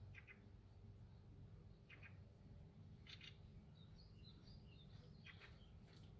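Near silence: a faint low hum with faint short chirps every second or two, and a brief flurry of higher chirps in the middle.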